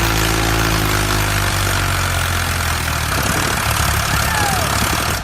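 Engine idling steadily with a low hum, the kind of tractor or truck engine sound laid over the miniature machines.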